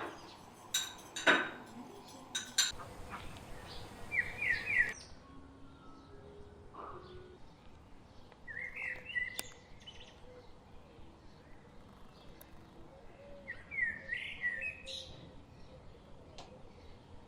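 Bird chirping in three short runs of quick rising notes, with a few sharp clinks and knocks in the first three seconds.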